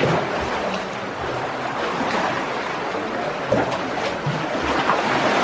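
Steady rush of moving seawater and wind around a kayak, with a few low thumps.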